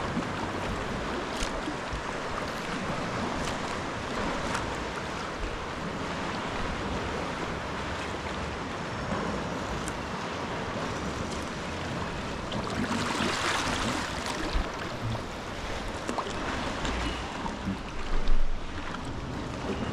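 Sea water sloshing and splashing around a sea kayak, with small drips and splashes throughout. About two-thirds through, a wave surges up louder, and a short knock comes near the end.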